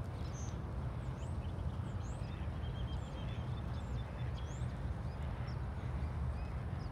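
Birds chirping in short rising calls, with a quick run of repeated notes about three seconds in, over a steady low rumble.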